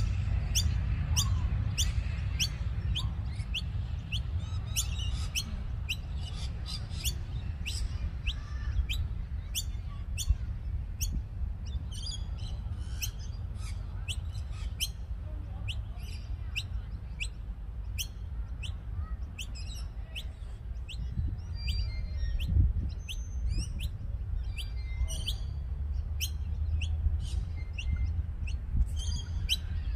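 Small birds chirping: a steady run of short, sharp, high chirps, about one every half second to two-thirds of a second, over a low rumble.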